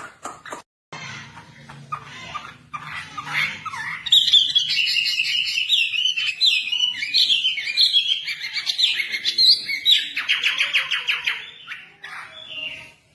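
Songbird singing a loud, varied song of quick chirps and whistled notes, with rapid trills near the end; softer chirps lead in over the first few seconds.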